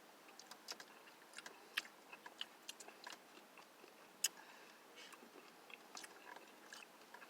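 A person eating a spoonful of Snickers Blizzard ice cream with candy pieces: quiet chewing with scattered small wet mouth clicks and smacks, one sharper click a little after four seconds in.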